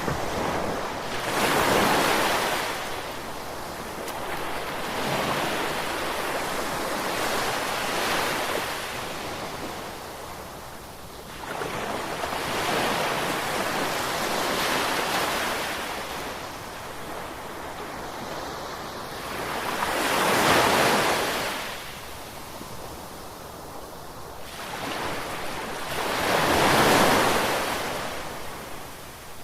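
Ocean waves breaking and washing in, the surf swelling and falling away every few seconds, with the biggest surges about two-thirds of the way through and near the end.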